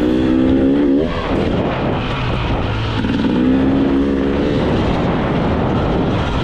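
Two-stroke engine of a brand-new 2025 GasGas EC 300 dirt bike, still in its break-in period, being ridden on trail. Its revs climb until about a second in, then drop off, and come back to hold steady briefly in the middle.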